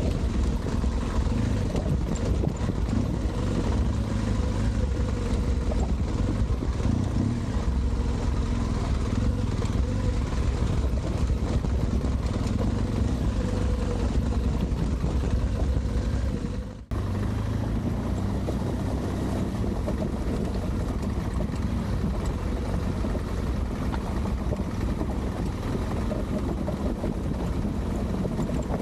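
Adventure motorcycle running steadily while riding over wadi gravel, with a low rumble. The sound dips briefly and changes slightly about seventeen seconds in, at a cut.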